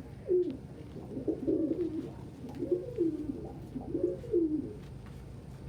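Domestic pigeons cooing: about four low, wavering coos, roughly a second apart, that stop a little before the end.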